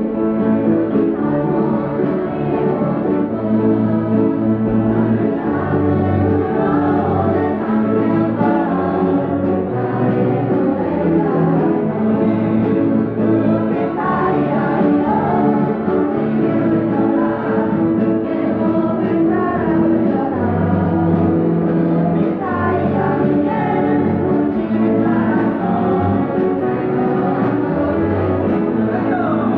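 A school choir singing a yodel song with keyboard accompaniment, sung lines wavering over steady sustained chords and bass notes.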